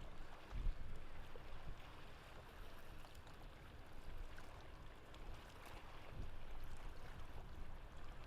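Water sloshing and lapping over a low, uneven rumble, with no clear engine tone.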